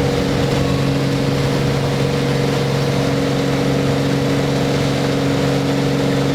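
Beechcraft Bonanza's piston engine and propeller running steadily at high power, a constant drone with no change in pitch.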